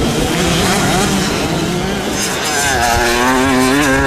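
Motocross motorcycle engines revving on the track, the pitch rising and falling with the throttle and climbing steadily in the second half.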